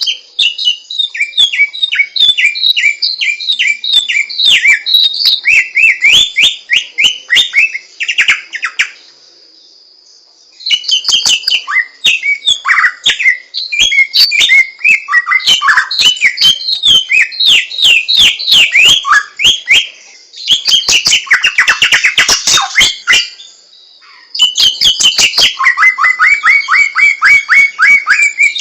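A samyong bird singing: long, rapid runs of sharp, mostly falling notes, loud and nearly continuous. The song breaks off twice for about a second, and a steady high tone runs beneath it.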